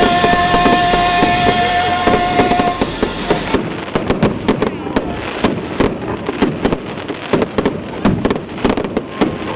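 Fireworks crackling in a rapid, irregular string of sharp pops. Music with a held note plays over the first few seconds, then cuts off suddenly, leaving only the crackle.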